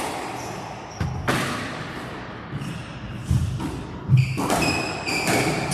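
Squash rally: the rubber ball smacks off rackets and the court walls in sharp strikes about every second, with short high squeaks of court shoes on the wooden floor between the shots.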